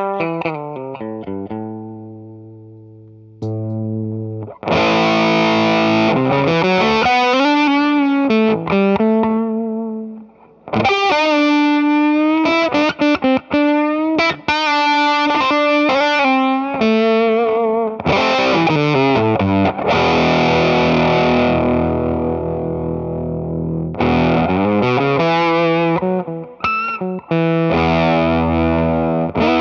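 Electric guitar played through an EarthQuaker Devices Sound Shank germanium fuzz pedal: softer held low notes at first, then from about four seconds in loud, thick fuzzed lead playing with string bends, vibrato, falling runs and ringing chords.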